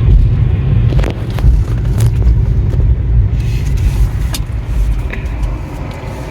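Steady low road and tyre rumble heard inside the cabin of a moving Tesla electric car, with a few faint ticks.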